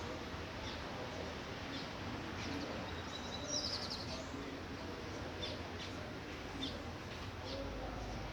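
Light rain falling as a steady hiss, with birds chirping now and then and a short rapid trill about three and a half seconds in. A faint low rumble comes in near the end.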